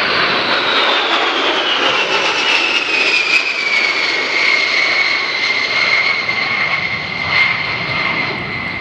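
Boeing B-52H Stratofortress's eight Pratt & Whitney TF33 turbofan engines on a flyby: a loud roar with a high whine that falls in pitch over the first four seconds as the bomber passes, then holds steady.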